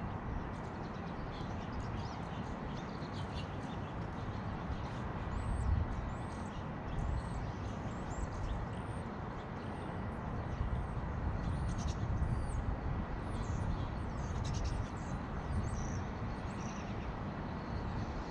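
Small birds chirping in many short, high calls, starting about five seconds in, over a steady low rumble.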